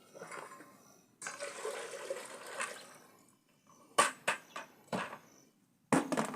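Water poured for about two seconds, followed by several sharp knocks and clatter, a couple of them in quick succession about four seconds in and again near the end.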